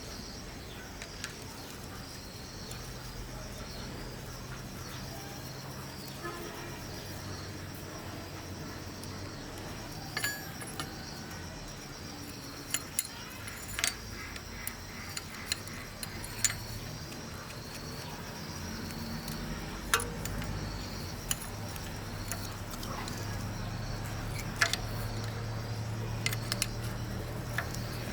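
Scattered sharp metallic clinks and taps, like tools and engine parts being handled and set down, over a steady low hum and a faint insect-like chirring.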